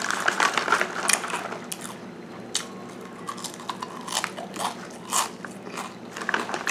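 Rice cracker topped with spicy pork floss being bitten and chewed close to the microphone: irregular sharp crunches.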